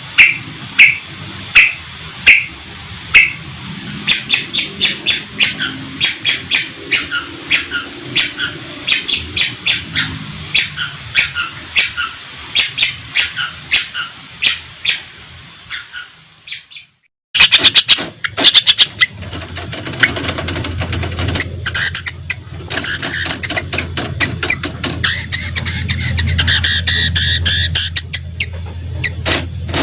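Long-tailed shrike (cendet) song: sharp repeated call notes about two a second that speed up into a fast run of high notes. After a brief break about halfway through, a dense, rapid twittering song follows.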